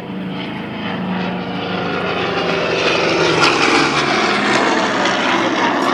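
Douglas AD-4NA Skyraider's big radial piston engine and propeller droning as the plane flies by, growing louder about halfway through and staying loud.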